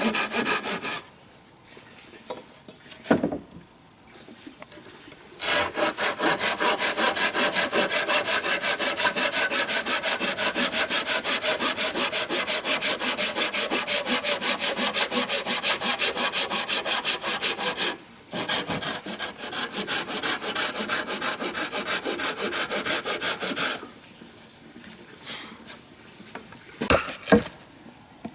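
Hand saw cutting wood in fast, even back-and-forth strokes. The sawing stops after about a second, resumes, pauses briefly partway through, and stops again a few seconds before the end. Sharp knocks fall in the quiet gaps.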